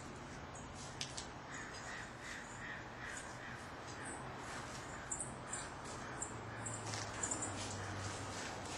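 A bird calling: a quick run of short repeated notes about a second and a half in, then scattered high chirps, over a steady low hum.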